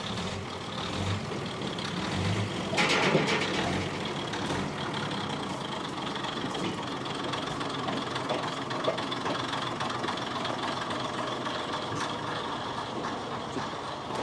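Katakami Railway diesel railcar Kiha 312 with its engine running steadily at low speed, leaving the shed. A short hissing burst comes about three seconds in.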